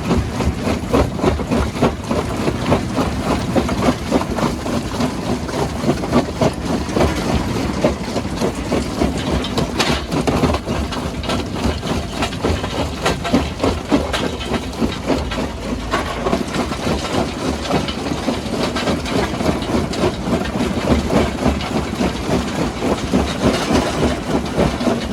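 Heavy diesel machinery running steadily under a constant clatter of short knocks, the sound of rock being handled and crushed.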